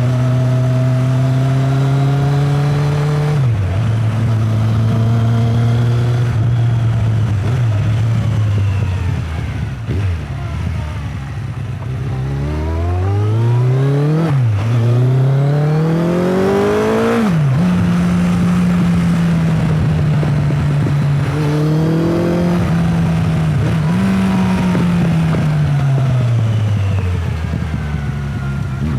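Motorcycle engine running, easing off and slowing, then accelerating hard with rising revs and two sudden drops in pitch as it shifts up through the gears. It holds a steady higher speed, then the revs fall away near the end.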